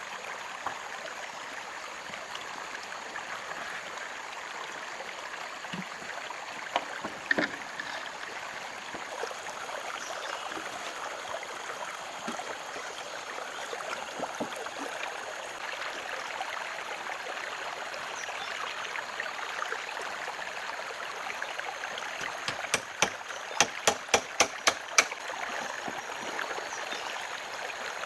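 Steady rushing of running water, like a stream. A few sharp knocks sound over it, with a quick run of about eight close together near the end.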